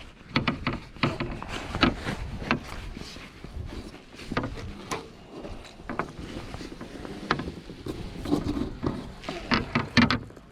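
Irregular knocks, clatters and rubbing of gear being handled aboard a fishing kayak, over a low rumble.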